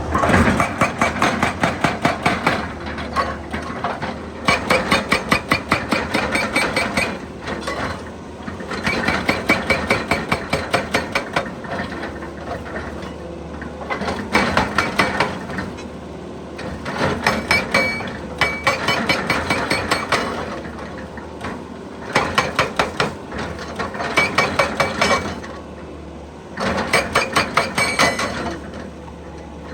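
Excavator-mounted hydraulic breaker hammering rock in bursts of rapid blows, each burst lasting two to three seconds. The excavator's engine runs steadily between bursts.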